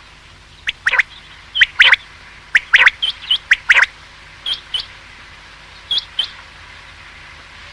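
Common quail calling: a run of short, sharp notes falling in pitch, mostly in pairs about a third of a second apart. After about four seconds only a few softer, higher notes come.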